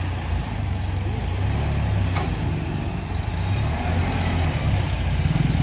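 Tractor engine running with a low, steady throb, getting slightly louder near the end.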